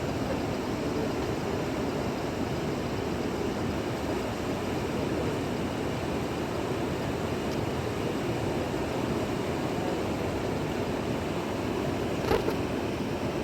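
Steady rush of a fast-flowing river, an even noise that holds at one level, with a brief sharp click about a second before the end.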